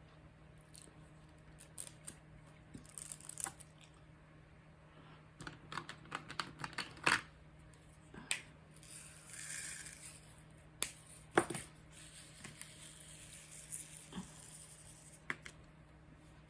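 Scattered small clicks and taps of small plastic pieces being handled, with a brief rustle about nine to ten seconds in.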